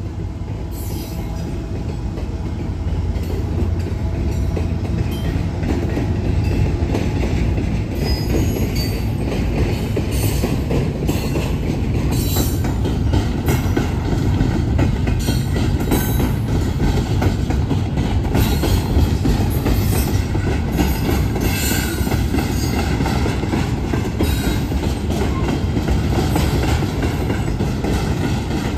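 Double-stack container train's well cars rolling past, with a steady rumble of steel wheels on the rails and frequent clicks and knocks from the wheels and couplings.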